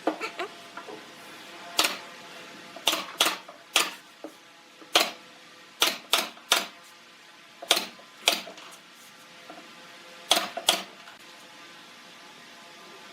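A series of sharp, irregular clicks or taps, about fifteen of them and some in quick pairs, over a faint steady hum.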